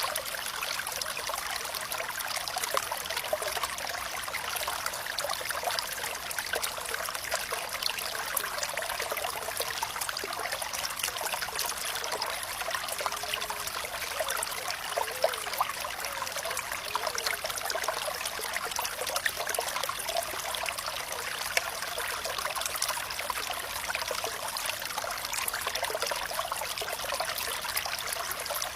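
Water flowing and trickling steadily, with small splashes and a few bubbly gurgles.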